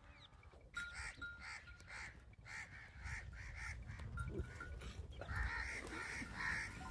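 A flock of sheep bleating, faint short calls repeated several times a second.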